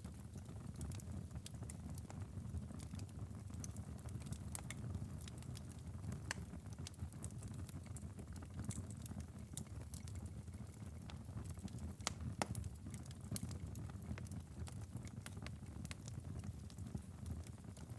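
Wood fire crackling in a fireplace: irregular sharp pops and snaps scattered throughout, over a steady low rumble of the flames.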